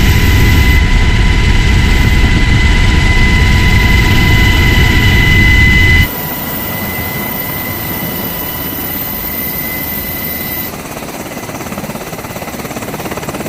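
Sikorsky HH-60G Pave Hawk helicopter running: a heavy rotor and engine rumble under several steady high whining tones. About six seconds in it drops suddenly to a quieter sound with much less rumble, and shifts again a few seconds later.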